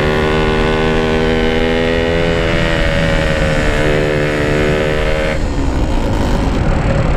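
Yamaha RX King's 135cc two-stroke single-cylinder engine running at a steady cruising speed through its exhaust, with wind rumble on the microphone. About five seconds in the throttle is closed and the steady note drops away to a rougher, lower sound as the bike coasts to save fuel.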